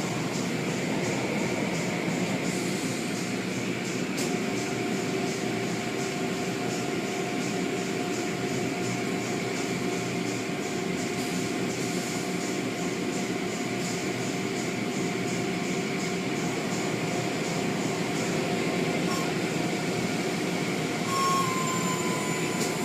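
Car wash machinery running: a steady mechanical drone with a few steady whining tones over it, and a short higher tone near the end.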